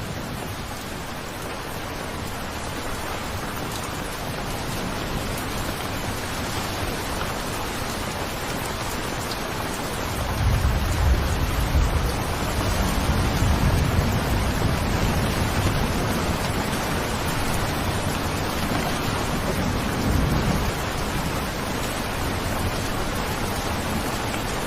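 Steady heavy rain falling, an even hiss. About ten seconds in a long low rumble of thunder swells under it, fading out again around twenty seconds.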